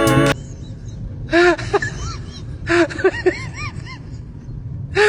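Music cuts off about a third of a second in. A dog follows with a string of short whines, each rising and falling in pitch, coming in small groups.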